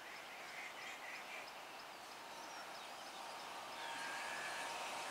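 Indian Railways EMU local train approaching: faint running noise and a thin steady whine that grow louder from about four seconds in. Birds are chirping.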